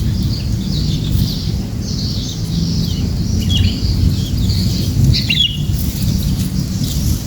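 Small songbirds giving short, high chirps on and off, the clearest about three and a half and five seconds in, over a steady low rumble.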